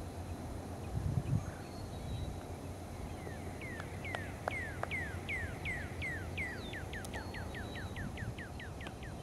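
A bird singing a long series of down-slurred whistled notes that start about three seconds in and speed up as they go, over a low rumbling background noise.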